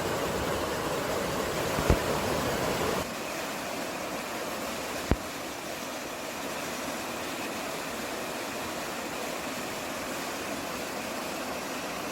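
Steady rushing outdoor mountain ambience of wind and running water. About three seconds in it changes abruptly, with the low rumble dropping away and the level falling, as at an edit. Two short sharp clicks come at about two and five seconds.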